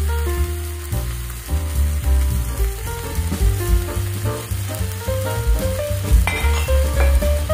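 Scrambled eggs sizzling in a hot wok as sauce is poured in, under background music with a stepping melody and a heavy deep bass.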